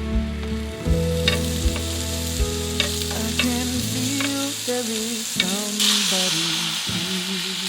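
Food sizzling as it fries in a pan, the hiss growing and strongest about six seconds in, over background pop music with held chords and a steady beat.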